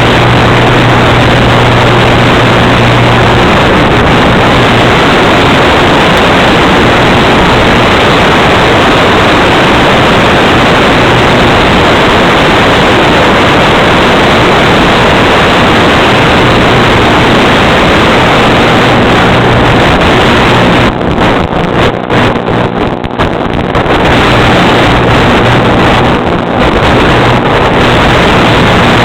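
Loud, steady rushing noise like wind on the microphone, with a low steady hum under it. About three quarters of the way through it dips and breaks up for a few seconds.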